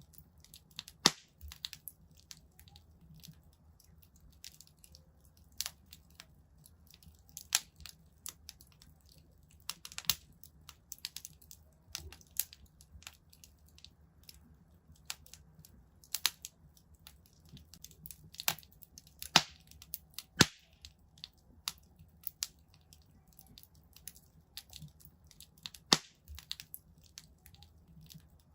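Wood fire crackling in a fireplace: irregular sharp pops and snaps, a few louder ones, over a faint low rumble.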